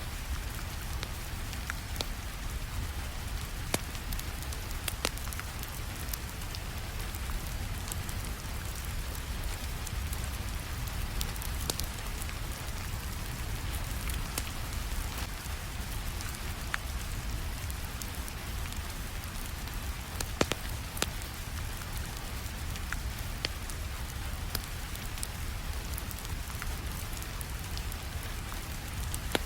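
Steady rainfall with a low rumble underneath, and scattered sharp crackles and pops from a wood fire, a few of them louder than the rest.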